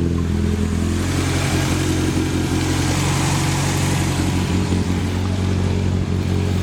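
A 32-year-old car engine running steadily after a Seafoam treatment, the cleaner being flushed out of it, with a rushing hiss that swells through the middle.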